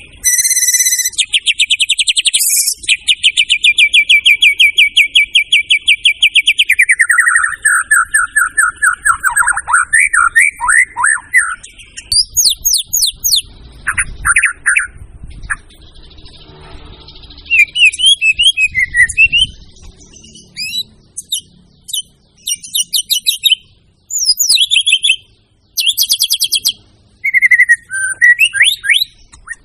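White-rumped shama (murai batu) singing a loud, varied song. It opens with a long rapid trill, then a run of descending slurred notes, then short whistled and chattering phrases with brief pauses between them.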